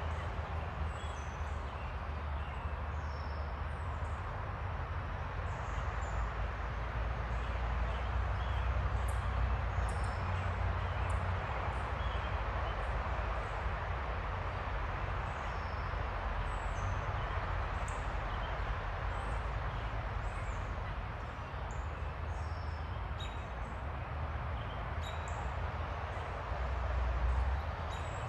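Small backyard songbirds chirping, with many short high chirps coming and going throughout, over a steady low rumble.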